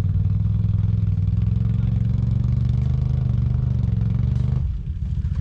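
ATV (quad bike) engine running under steady throttle, its note climbing slowly. The pitch drops sharply about four and a half seconds in, then the engine carries on at lower revs.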